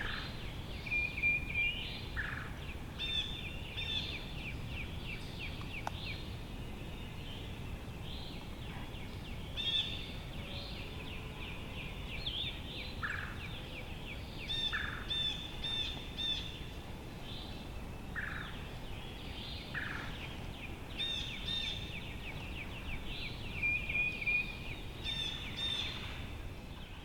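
Several songbirds singing in woodland, with quick repeated trilled phrases high in pitch recurring throughout and a few short lower notes, over a faint steady background hiss.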